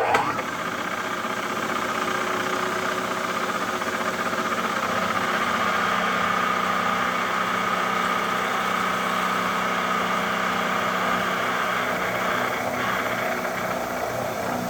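Supermax vertical milling machine's spindle motor switching on and running at a steady, even hum while a center drill spots a hole in a 416 stainless steel blank.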